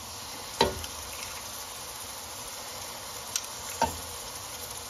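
Onion-and-spice masala sizzling steadily in oil in a metal pan. A sharp knock comes about half a second in as tomato paste goes into the pan, with a faint tick and another light knock near the end.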